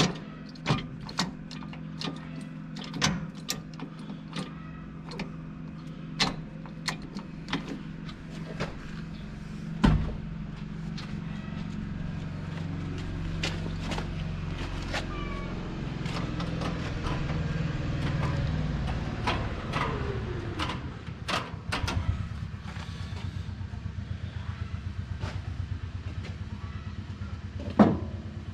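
An engine running with a steady low hum, with repeated short sharp metallic clicks and taps over it. From about two-thirds of the way through, the hum takes on a fast even pulsing beat, and there is a loud knock near the end.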